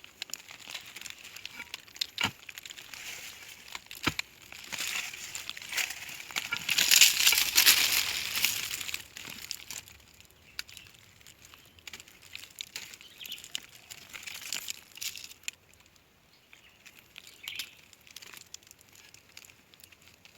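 Rustling and crackling with scattered sharp knocks, loudest in a stretch of rustling about six to nine seconds in.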